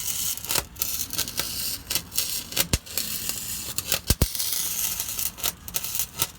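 Flux-core wire-feed welder arc crackling and hissing as it welds a glass pack muffler back on, stopping and restarting several times in short runs, with a couple of sharp clicks about midway.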